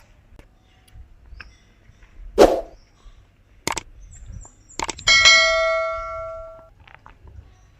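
A few sharp knocks, then a struck bell-like metallic ring about five seconds in that dies away over a second and a half.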